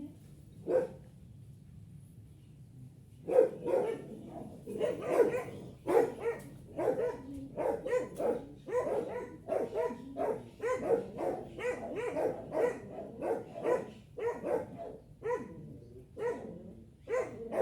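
A dog barking repeatedly: one bark just under a second in, then a steady run of barks, about two a second, from about three seconds in.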